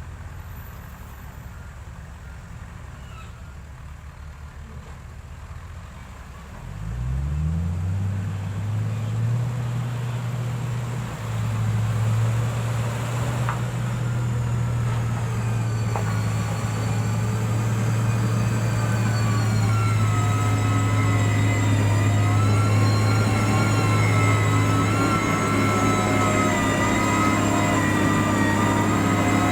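Heavy-equipment diesel engine rumbling low, then revving up about a fifth of the way in and holding at a steady high speed. In the second half a wavering whine rides over the engine.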